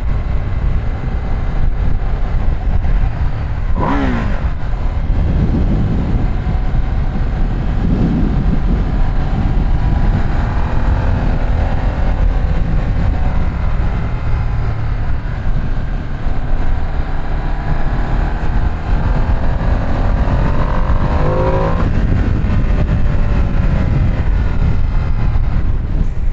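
Ducati Streetfighter V2 S L-twin engine under way, its pitch climbing and dropping several times as the rider accelerates and changes gear, under a heavy rush of wind on the microphone.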